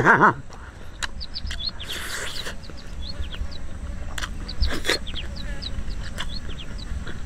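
Small birds chirping: many short, high, quick downward-sliding chirps repeating irregularly.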